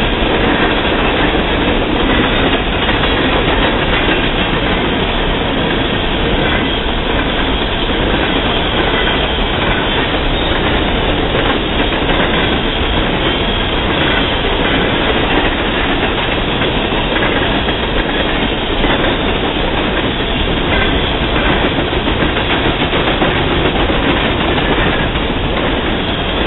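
Coal train's freight cars rolling past steadily, a continuous rumble with the wheels clicking over rail joints.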